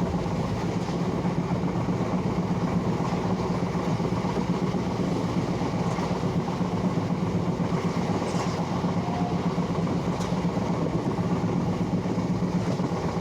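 Train running on the rails: a steady, unbroken rumble with a couple of faint clicks.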